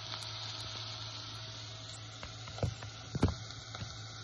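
Grated vegetables and capsicum sizzling in hot butter and oil in a pressure cooker on a gas stove, a steady sizzle with a low hum underneath. A little past halfway come two sharp knocks about half a second apart.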